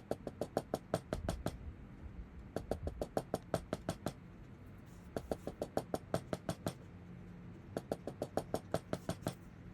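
Four runs of rapid, sharp clicks or taps, about seven a second, over a low steady hum.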